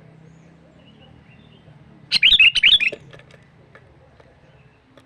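Sooty-headed bulbul singing one short loud burst of quick, bubbly notes about two seconds in, lasting under a second, over a faint low background hum.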